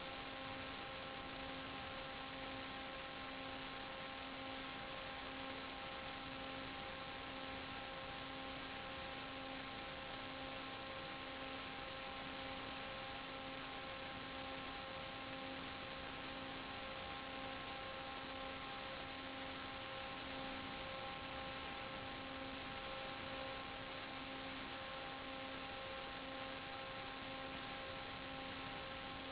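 Steady electronic hum and hiss with several fixed tones and a lower tone pulsing slowly and evenly: noise and interference on an analog 5.8 GHz FPV video link's audio channel.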